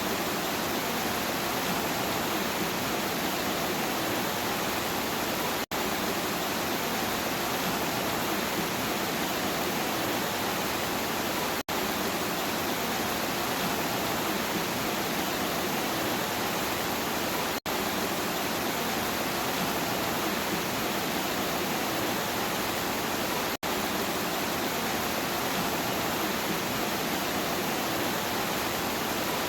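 Steady, even hiss of heavy rain, broken by a very brief dropout about every six seconds.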